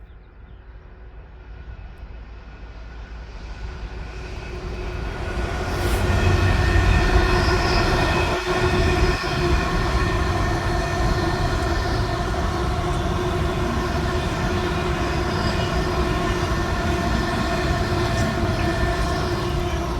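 Class 66 diesel-electric locomotive with its two-stroke V12 engine, hauling an engineering train: it grows louder over the first six seconds as it approaches and passes, then the train keeps rolling past steadily.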